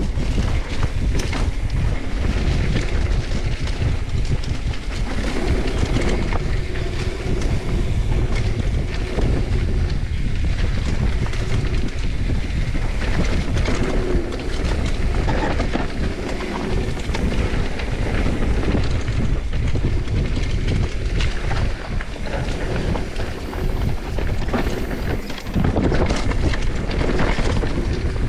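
Wind buffeting the microphone over a steady low rumble, with no clear breaks.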